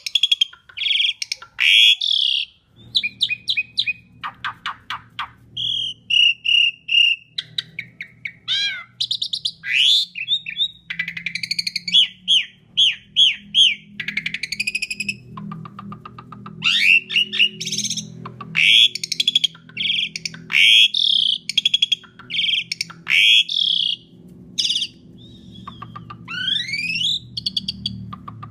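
Asian pied starling (jalak suren) singing a long, varied run of loud chirps, whistles and quick rising sweeps with many mimicked fill-ins. A low steady hum runs underneath from about three seconds in.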